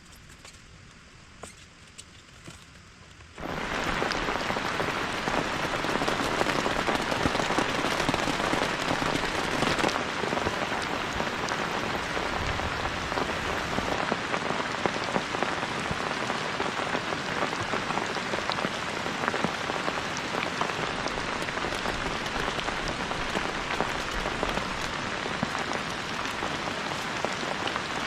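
Heavy rain pouring down in a dense, steady hiss. It comes in abruptly about three seconds in, after a quiet start with a few light clicks.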